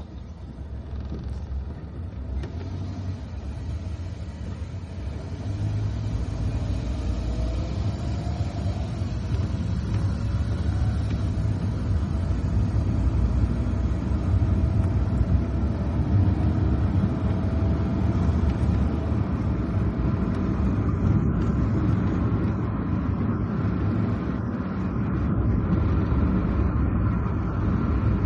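Car driving on a wet road: steady low rumble of engine and tyres, which grows louder about five seconds in, with a faint wavering whine over it.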